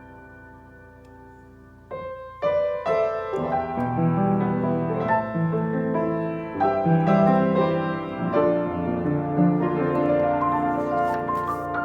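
Instrumental piano music. A soft held chord fades away, then about two seconds in the playing comes back louder, and a fuller low part joins a second later.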